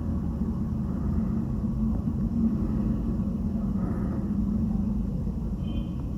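Steady low rumble of motor-vehicle traffic, with a brief faint high tone near the end.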